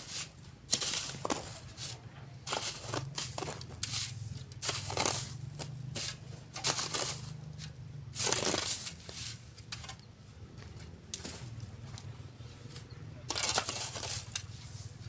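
Shovelfuls of sand being scooped and thrown onto a sifting screen and into a truck bed, making irregular gritty scraping and pouring rushes a second or so apart, with the loudest about halfway through. A steady low hum runs underneath.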